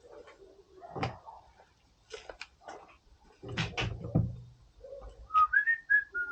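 Clicks and knocks of a greasy CV axle joint and its parts being handled, the loudest a dull thud about halfway through, then a quick run of short high squeaks near the end.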